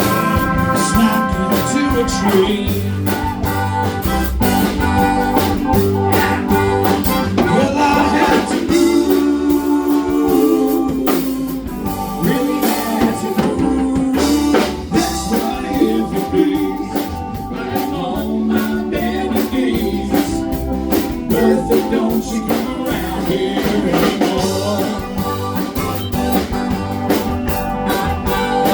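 Live band music: guitar, bass and drum kit playing a blues-style tune, with a singing voice over it.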